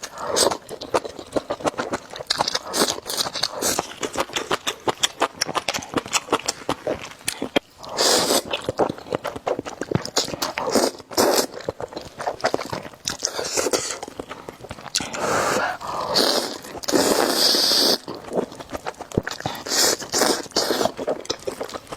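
Close-miked eating of spicy noodle soup: wet chewing and smacking clicks go on throughout, broken by several longer slurps of noodles and broth. The longest slurp comes about three quarters of the way in.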